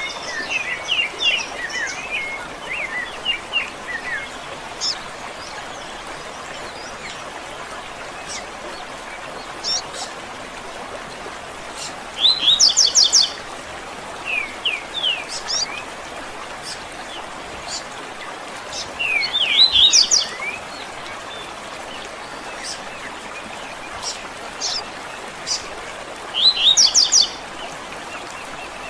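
Wild birds singing and chirping. One bird repeats a loud, short, rapid phrase about every seven seconds, three times in all, with scattered short falling chirps from other birds in between, over a steady background hiss.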